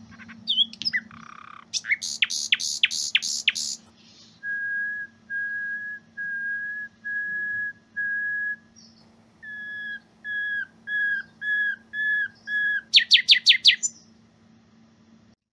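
Common nightingale singing a whistle song: a few chirps and a fast trill of sharp downward notes, then a series of five steady pure whistles at one pitch, then six slightly falling whistles, ending in another fast trill.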